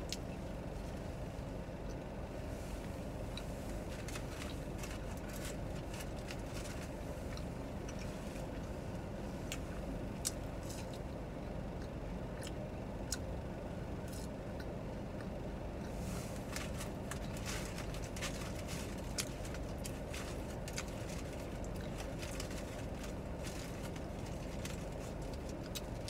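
Mouth clicks and soft crunches from chewing a grilled cheese sandwich, growing thicker about halfway through, over a steady low rumble inside a parked car's cabin.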